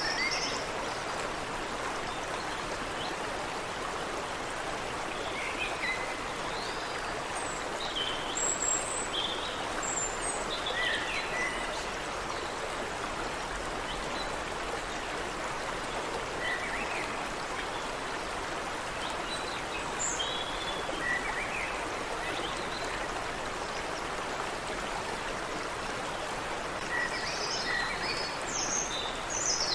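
Creek water running steadily, with small birds chirping on and off: short scattered calls, busiest about a third of the way in and again near the end.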